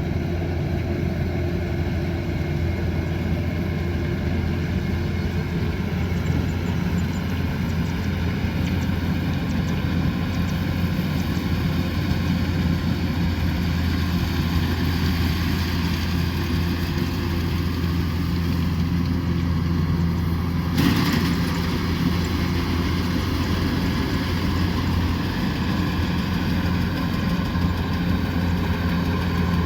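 Kubota combine harvester running steadily at work, its engine and machinery giving a constant low hum with steady higher tones. About two-thirds of the way through there is a single brief sharp knock.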